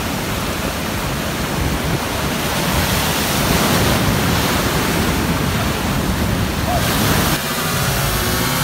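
Heavy ocean surf: breaking waves in a steady, loud rush that swells a little midway, then changes abruptly shortly before the end.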